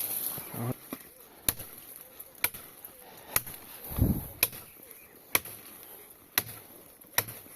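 A blade chopping through dense brush: sharp strikes about once a second, seven in all, with a dull thump about halfway through.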